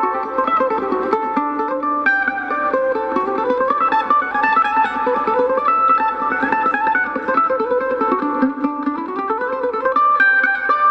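Mandolin picked in quick runs of single notes that climb and fall, played as country music.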